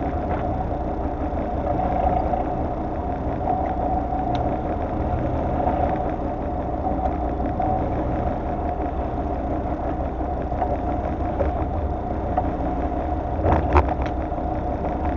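Fishing boat's engine running steadily at low revs, a low rumble with a steady hum. A couple of sharp knocks come near the end.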